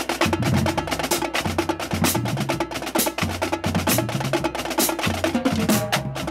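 Marching drumline playing a fast cadence: rapid, crisp snare drum strokes over tuned bass drums that step up and down in pitch.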